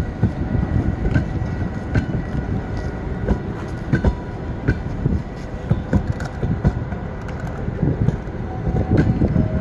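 A train rolling along the track: a steady low rumble, with wheel clacks about once a second and a faint steady high whine.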